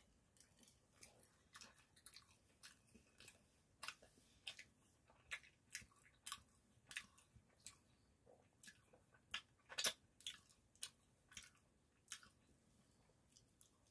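A person chewing a mouthful of Korean sundae (blood sausage) from a skewer, close to the microphone: faint wet mouth clicks and smacks, about two a second, with the loudest smack about ten seconds in.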